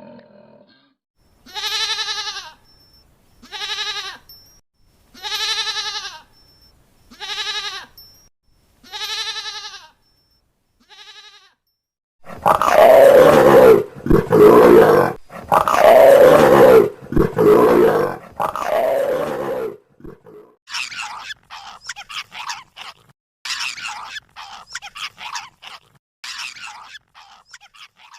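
A run of different animal calls. First come six evenly spaced, wavering calls. Then a few loud, harsh calls that fall in pitch, and near the end a quick string of short, higher calls.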